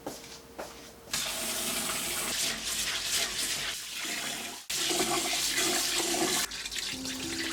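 Water running from a tap, starting suddenly about a second in and broken off briefly a little past halfway before running on. Soft music comes in near the end.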